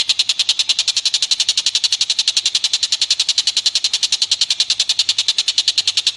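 A rapid, even train of sharp high chirps or ticks, about a dozen a second, from a small animal's call in a birdsong training recording.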